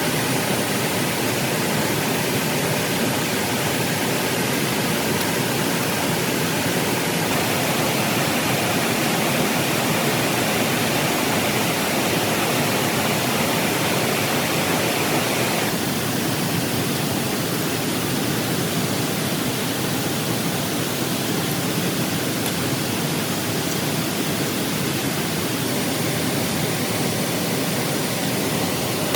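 Heavy rain falling steadily, a dense even hiss with no thunder claps. Its tone shifts slightly twice, brighter a few seconds in and duller about halfway through.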